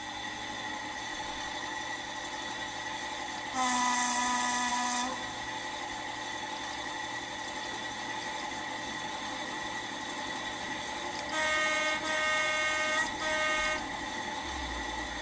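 Accurascale OO gauge Class 55 Deltic model's sound decoder playing the Deltic engine idling through its small speaker, as a steady hum. At about four seconds a low horn blast sounds for about a second and a half. Near the end come three shorter blasts on a higher note.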